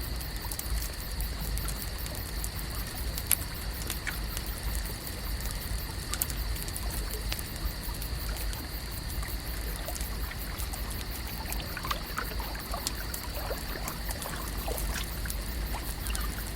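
Lakeside ambience: water gently trickling and lapping over a low rumble, with a steady high-pitched hum throughout. Scattered sharp clicks and small chirps come in, more of the chirps in the second half.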